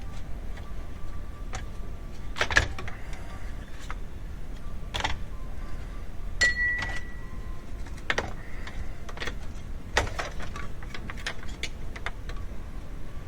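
Plastic radiator fan assembly being wiggled loose by hand: irregular clicks, knocks and rattles of plastic against its mounts, with a short squeak partway through.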